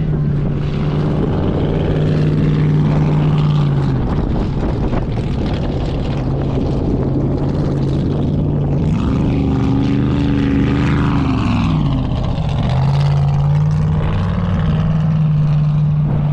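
An engine running at steady high revs with a constant droning note. About nine seconds in the pitch climbs, holds for a few seconds, then drops back to the earlier note.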